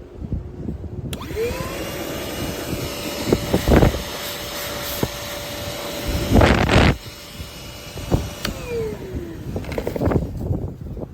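LIGO 20V cordless shop vacuum's motor switched on about a second in, rising quickly to a steady whine. It runs with two loud rushing surges around the middle, then is switched off near the end and winds down with a falling whine.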